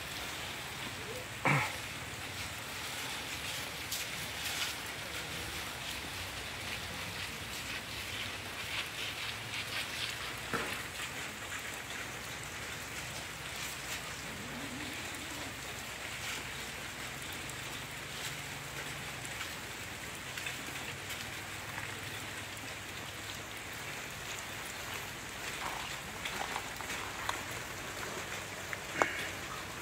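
Steady rain falling on wet ground and puddles, with a single sharp knock about a second and a half in and a few fainter clicks later.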